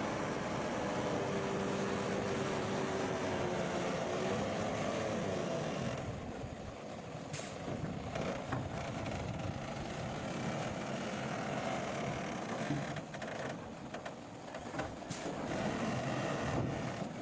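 Bulldozer's diesel engine running hard for about six seconds, then easing to a quieter, more uneven running, with a few sharp metallic clanks.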